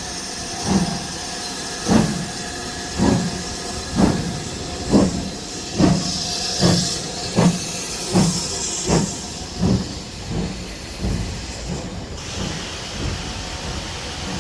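Steam locomotive pulling away, its exhaust beats quickening from about one a second and growing fainter as it draws off, over a steady hiss of steam.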